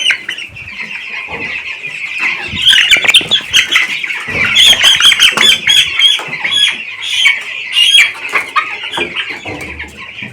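A pen of two-week-old chicks peeping loudly and without pause, many short high chirps overlapping, with wing flapping and scuffling as birds are caught and handled.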